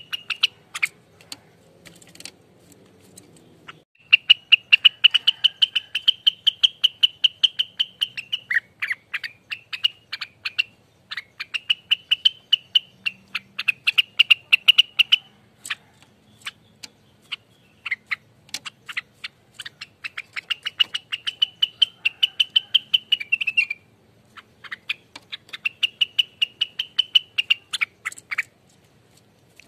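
Rengganis songbird singing fast 'ropelan' song: long runs of rapid, evenly repeated sharp notes, roughly eight to ten a second, in bursts of two to four seconds with short pauses between.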